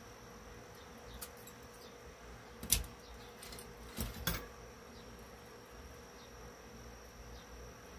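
A few short sharp knocks or clicks, the loudest nearly three seconds in and a close pair about a second later, over a faint steady buzzing hum.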